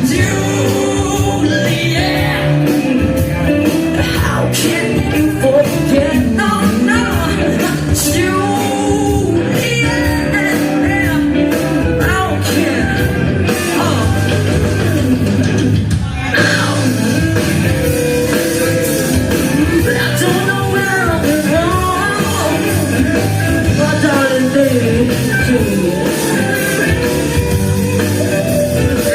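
Live rock band playing with a singer, guitars and drums, heard in a large room.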